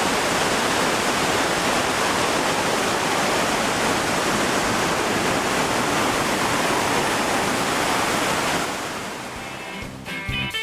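Waterfall rushing steadily, a loud, even wash of falling water. It fades out about nine seconds in, and guitar music starts near the end.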